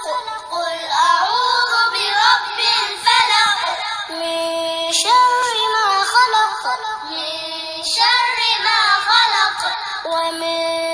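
Melodic Quran recitation: a single voice chanting in long, ornamented phrases with sustained held notes.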